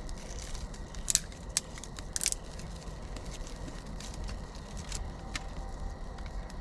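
Newly lit birch bark and kindling fire crackling, with a few sharp pops over a low steady background.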